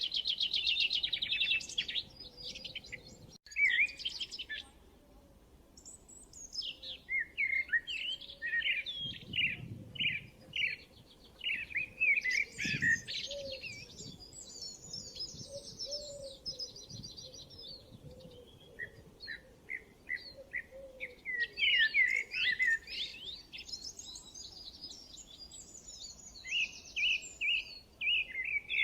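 Several songbirds chirping and singing, with quick overlapping chirps and trills that come in bunches with short pauses between them.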